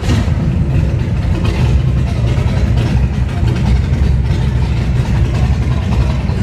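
A motorcycle engine running at a steady idle, cutting in suddenly at the start and staying loud throughout.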